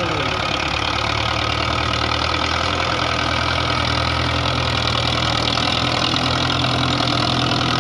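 Belarus 510 tractor's four-cylinder diesel engine running steadily with a low, even hum.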